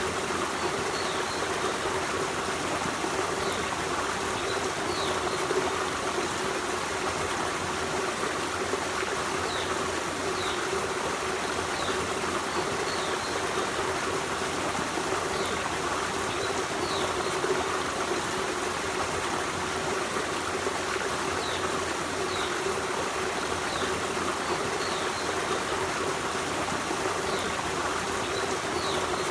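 Forest stream running steadily over rocks, a continuous rush of water. Brief faint high chirps come and go above it throughout.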